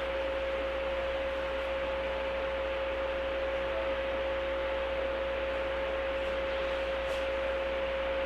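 Steady hiss inside a 103-series electric commuter car, with a constant humming tone running under it and no change in pitch or level.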